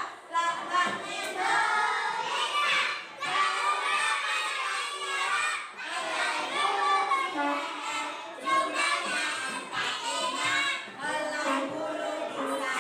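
A roomful of young children's voices, many at once, calling out and chattering over one another without a break.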